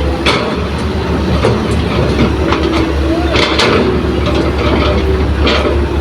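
Hitachi hydraulic excavator working: a heavy diesel engine running steadily under irregular metallic clanks and knocks, with a wavering hydraulic whine.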